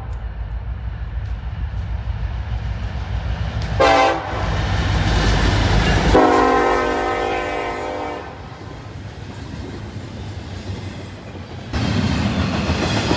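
Train horn over the low rumble of a passing train: a short blast about four seconds in, then a longer blast of about two seconds. Near the end, louder rolling train noise starts suddenly.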